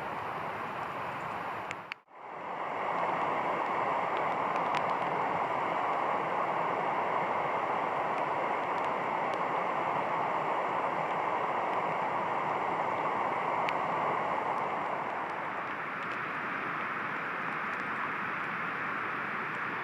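Steady rushing of a stream or river. The sound breaks off abruptly about two seconds in, then returns a little louder and keeps on evenly.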